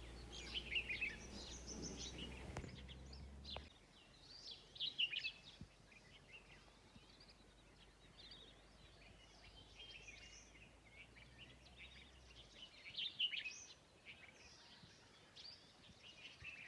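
Several birds chirping and twittering in short, high calls, faint, with flurries of calls about a second in, around five seconds in and again near thirteen seconds.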